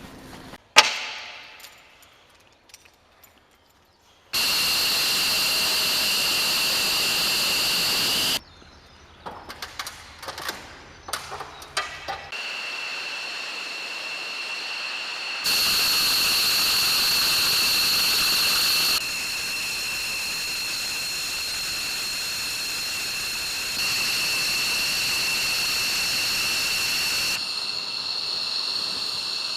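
F-16 Fighting Falcon's jet engine running on the ground: a steady hiss with a high, two-note whine, heard in several segments that start and stop abruptly at different loudness. A sharp knock about a second in, and scattered clicks and ticks in a quieter stretch near the middle.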